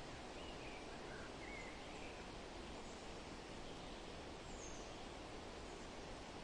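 Steady rustle of wind through forest leaves, with a few faint, short bird chirps scattered through it.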